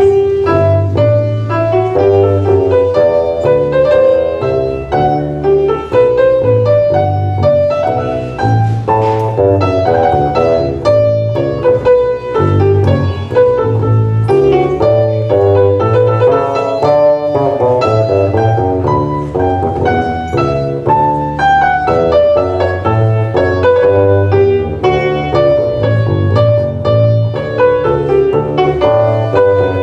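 A small ensemble playing live: piano in quick, dense runs of notes over a low, sustained bass line.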